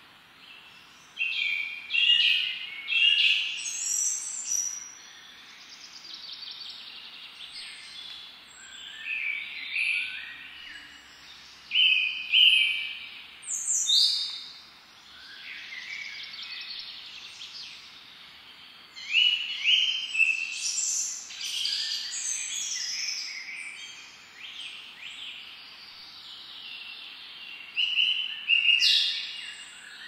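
Woodland songbirds singing, short varied phrases following one another every second or two, over a steady soft background hiss.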